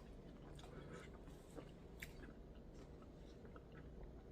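Faint chewing of food with small, scattered mouth clicks, close to near silence.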